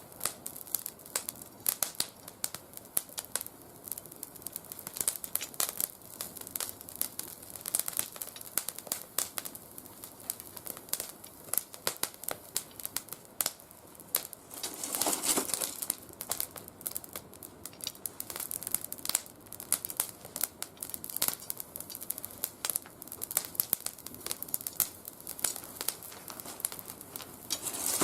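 Oak twigs burning in a mesh fire pit, crackling with many sharp pops; the wood is not fully dried. About halfway through there is a brief rushing noise.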